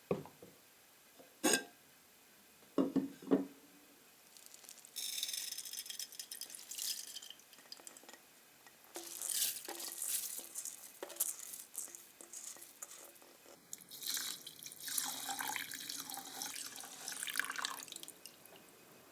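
A few sharp clatters, then water running from a tap into a sink in three spells of a few seconds each, splashing as something is rinsed under it.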